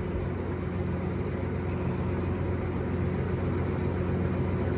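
Tractor engine idling steadily, a constant low hum heard from inside the cab.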